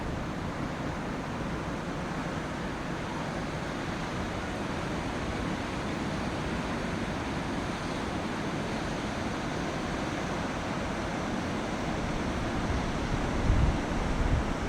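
Ocean surf washing steadily, with wind rumbling on the microphone and a couple of stronger gusts near the end.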